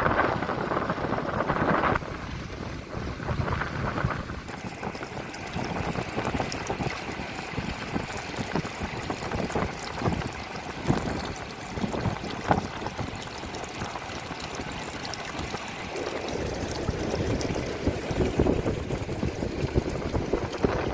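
Wind buffeting the microphone in gusts over the wash of sea waves.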